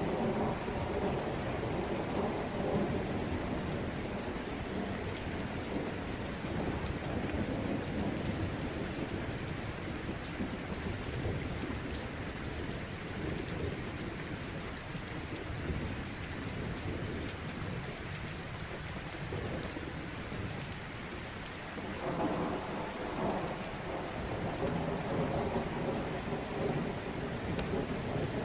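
Steady heavy rain with thunder rumbling, which dies down and then builds again about three-quarters of the way through.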